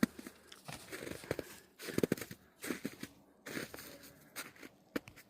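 Irregular, close crunching and crackling of footsteps in snow and dry twigs.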